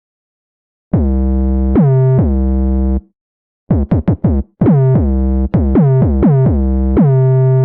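Riddim dubstep synth bass sample: loud, buzzy pitched notes, each starting with a quick downward pitch swoop. It plays a short stuttering pattern after about a second of silence, with a brief gap and a rapid run of short notes in the middle.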